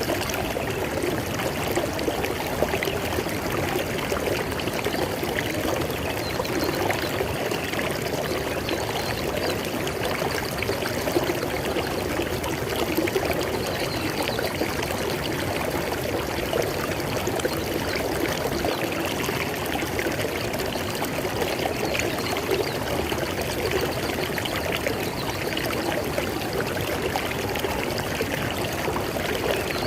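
River water flowing over rocks, a steady rushing and splashing with no pauses.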